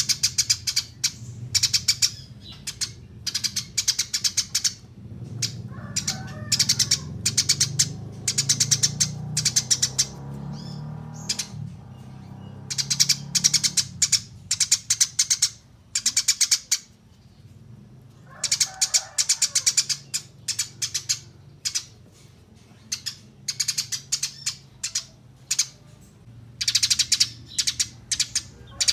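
Eurasian tree sparrow chirping in quick clusters of short, high chirps, each run a second or two long with brief pauses between, over a faint low hum.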